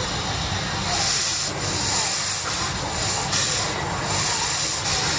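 Steam crane's engine starting to work: four loud bursts of steam hiss, about a second apart, over a steady low rumble.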